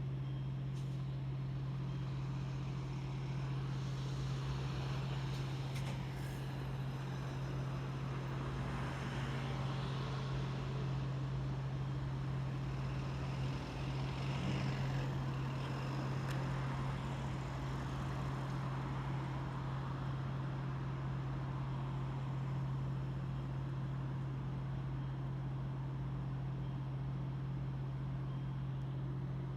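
Motorcycle engine running at a steady low hum, with city traffic noise around it and a slight swell about halfway through.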